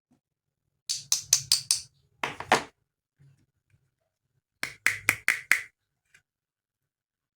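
Hard plastic toy pieces knocking and clicking together in two quick runs of about five taps each, with a short scraping clatter between them.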